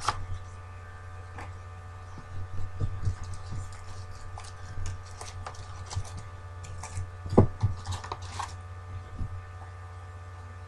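Trading-card packs and cards being handled: scattered short crinkles, rustles and clicks, with one sharper knock past the middle, over a steady electrical hum.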